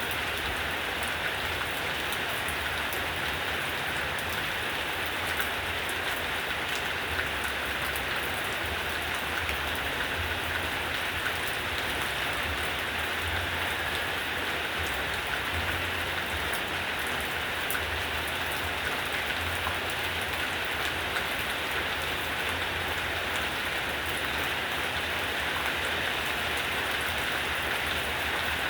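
Heavy rain falling in a steady downpour, a continuous even hiss of drops on surfaces.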